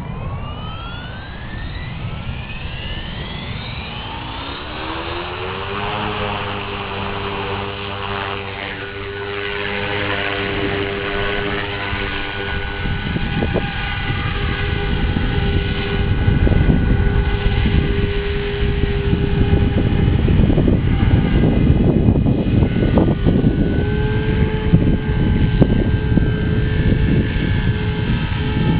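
Align T-Rex 450 Pro electric RC helicopter spooling up: its motor and gear whine climbs in pitch over the first several seconds, then holds steady at flying speed. Gusty wind noise on the microphone grows louder over the second half.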